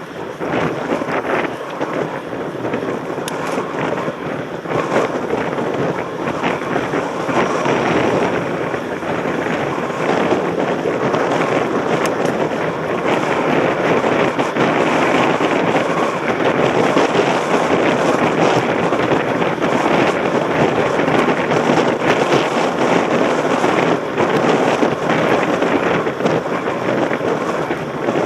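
Wind rushing over a helmet-mounted camera's microphone on a moving mountain bike, with constant crackling and rattling from the ride; it grows a little louder about a third of the way in.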